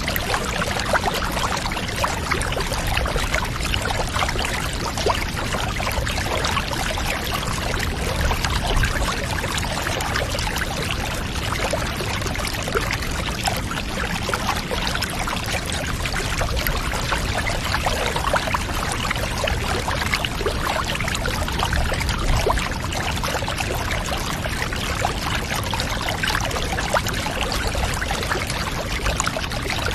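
Bathwater running steadily, an unbroken pouring and trickling with a dense patter of small splashes.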